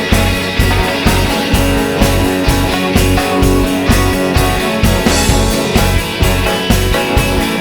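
Live rock band playing an instrumental passage: guitar over bass and drums with a steady beat.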